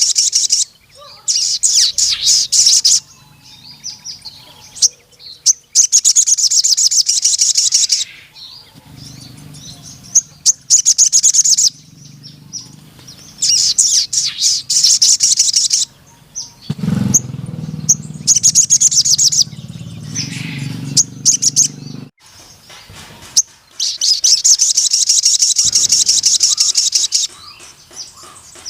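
Sogon (an Aethopyga sunbird) singing: repeated long, rapid, high-pitched trills of one to three seconds each, with short pauses between.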